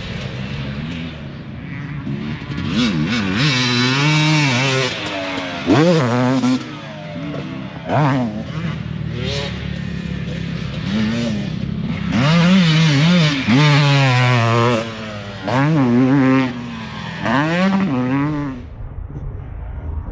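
Motocross dirt bike engines revving hard and backing off again and again, the pitch climbing and dropping as the throttle is worked around the track. The sound turns duller just before the end.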